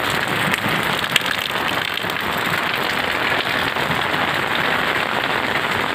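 Heavy rain falling steadily on a brick-paved lane and walls, an even, dense hiss of drops with an occasional sharper tick.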